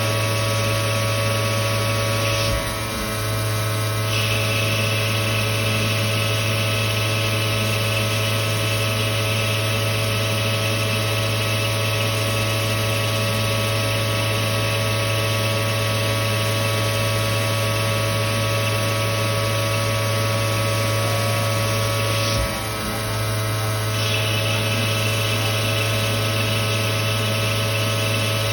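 Victor V-Turn 36 CNC lathe running: a steady machine hum made of many steady tones. The sound changes briefly twice, about two and a half seconds in and again near twenty-two seconds in.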